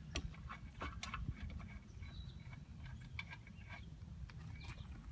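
Faint, irregular metallic clicks and taps of a wrench and loosened lug nuts being worked off a tractor wheel's studs.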